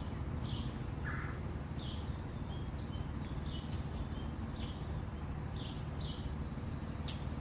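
Small birds chirping in short, high, repeated notes over a steady low background rumble.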